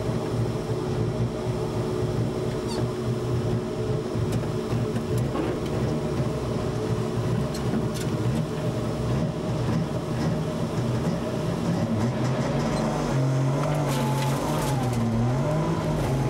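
Trabant rally car's engine heard from inside the cabin, idling steadily while the car stands still, then revved up and down a few times in short blips over the last few seconds.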